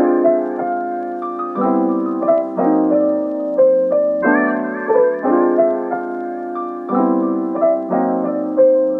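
Background piano music: a gentle, repeating pattern of chords and melody notes.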